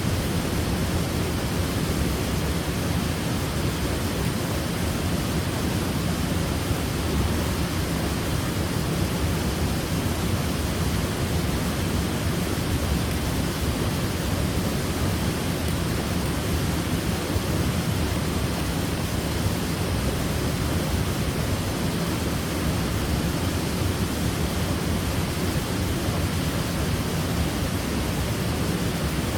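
Waterfall: a steady, even rush of falling water, strongest in the low end.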